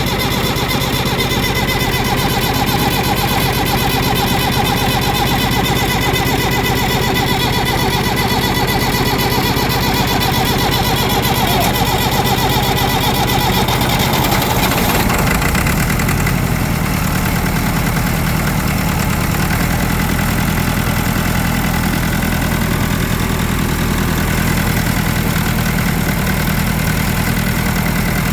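Tractor diesel engine turning over and running with its injector-line nuts cracked open, pumping air out of the fuel system as it is bled. About halfway through the sound changes, becoming lower and steadier.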